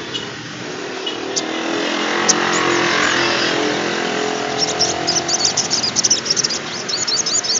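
A passing motor vehicle rises and fades over the first few seconds. From about halfway in, a sunbird (sogon trotol) sings a fast, dense run of very high, thin chirps until the end.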